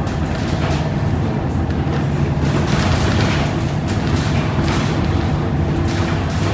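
Scania K230UB city bus's diesel engine running under way, a steady low drone with road noise and a hiss that swells and fades every second or two.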